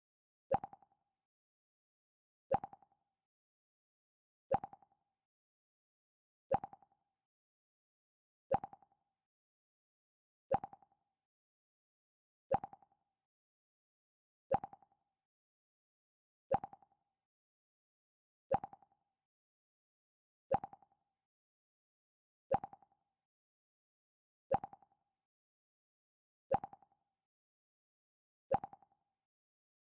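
Mac OS X 'Pluck' sound effect played over and over: a short plucked note that dies away quickly, repeating about every two seconds with silence in between.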